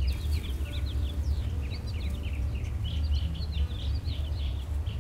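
Small songbirds chirping and twittering in quick, overlapping calls, over a steady low rumble.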